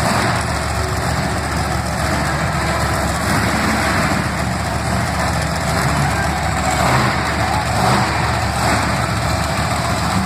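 Monster truck engine running steadily at low revs.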